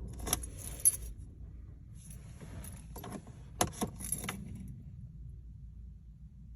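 Vehicle keys jangling, with a handful of sharp metallic clicks spread over the first four seconds, over a faint low rumble.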